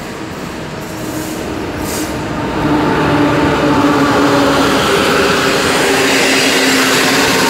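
An electric locomotive hauling passenger coaches along the platform. It grows louder about two and a half seconds in as it passes close, then the coaches roll by with a steady running noise and steady whining tones.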